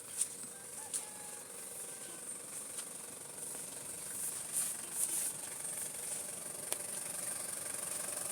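Rain falling in a steady hiss, with scattered drops tapping sharply now and then; the hiss grows a little louder about halfway through.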